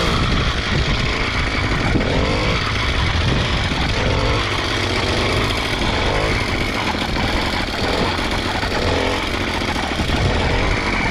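An 80cc two-stroke motorized bicycle engine running while the bike is ridden, with steady rumbling wind noise on the microphone.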